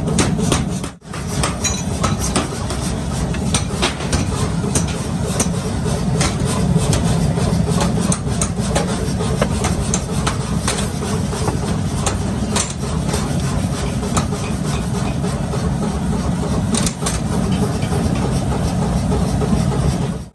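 Blacksmith's workshop: a steady low machine hum runs under irregular sharp hammer strikes on metal.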